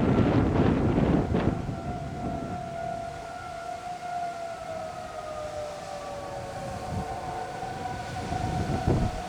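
Outdoor tornado warning siren sounding a steady wail, one of its tones sliding slowly lower partway through. Wind buffets the microphone for the first second or so and picks up again near the end.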